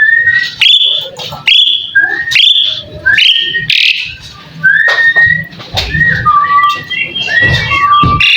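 Pied starling (jalak suren) singing a loud series of short whistled notes, each sliding upward, roughly one a second. In the second half the whistles turn flatter and lower.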